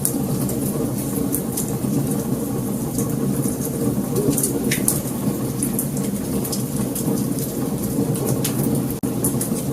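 Wood fire burning, a steady low rush of flames with frequent sharp crackles and snaps over it. The sound drops out for an instant about nine seconds in.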